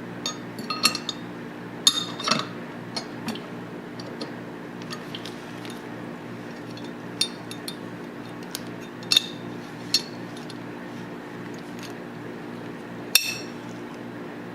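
Steel parts of a Tokarev TT-33 pistol clinking and clicking as they are handled and fitted back together, in scattered light taps with a sharper click about 13 seconds in, over a steady low hum.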